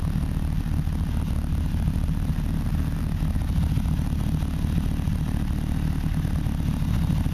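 Freshly overhauled engine idling steadily on its first run, having just caught after several attempts to start it.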